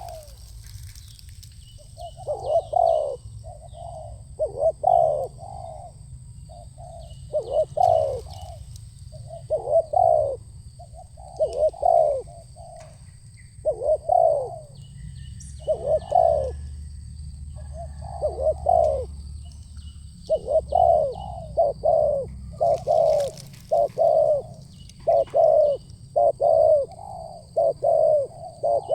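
Spotted doves (tekukur) cooing over and over, in quick groups of two or three low coo notes every second or two. A faint steady high insect drone and a few small chirps sit behind them.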